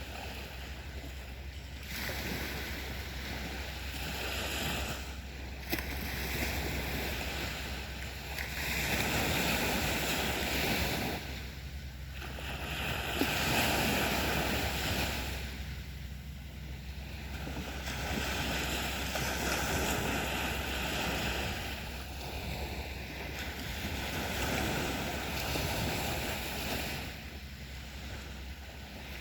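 Sea waves breaking and washing up on a beach, the surf swelling and falling every four to five seconds.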